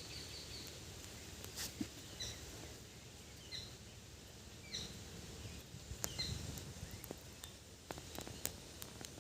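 A bird chirping faintly outdoors: short high notes about once a second for a few seconds mid-way, over low background noise with a few faint clicks.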